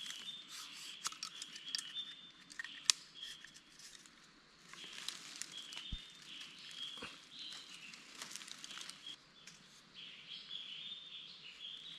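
Jungle ambience with repeated high chirping calls, and scattered sharp clicks and light rustling from hands working a bamboo bird trap among leaves and twigs.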